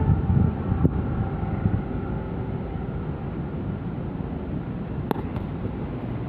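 Steady low rumble of a passenger train running, a little louder over the first two seconds, with a sharp click about five seconds in.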